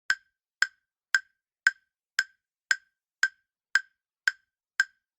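Countdown clock ticking sound effect: ten evenly spaced ticks, about two a second, with dead silence between them.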